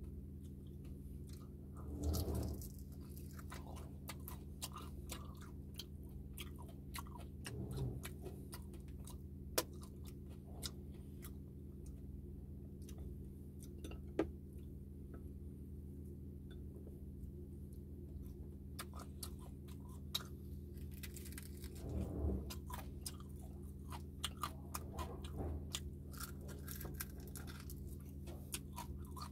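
Close-miked chewing and crunching of crispy pata (deep-fried pork leg), with many sharp mouth clicks and crunches, over a steady low hum.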